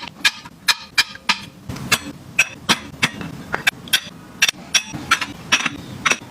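A quick, uneven series of sharp clicks and taps from hard items being handled and set down, about three a second, many with a short bright ring.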